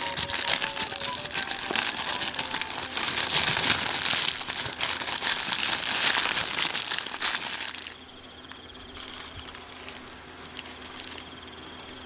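Paper food wrapping crinkling and rustling as fast food is unwrapped, loud for about eight seconds, then softer handling with a few light clicks.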